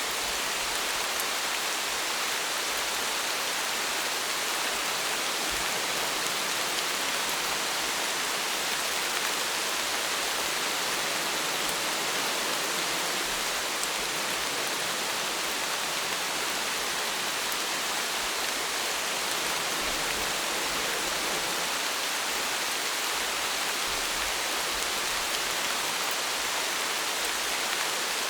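Steady rain falling, an even hiss with faint patter of drops, unchanging throughout.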